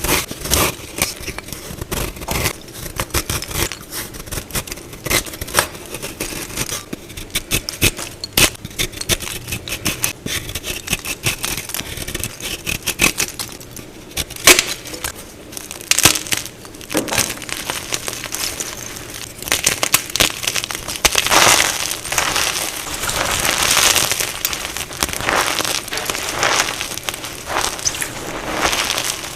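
Plain undyed gym chalk being crushed: a run of sharp, dry crunches and crackles, then from about two-thirds of the way in, denser, longer crumbling swells as the chalk breaks down into powder.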